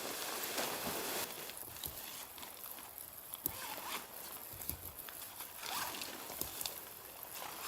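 Irregular rustling and scraping noises with scattered sharp clicks, like a zipper or gear being handled.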